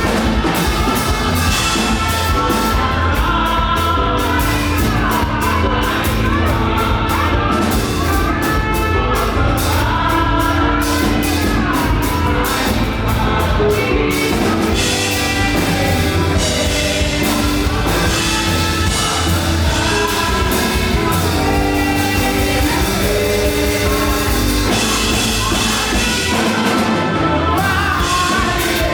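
Live fast gospel praise music: a worship band with bass and drums playing an up-tempo groove while a group of singers sings over it.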